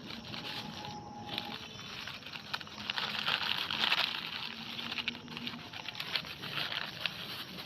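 Plastic crinkling and rustling as it is pulled out of the soil and handled, a dense crackle that is loudest about three to four seconds in.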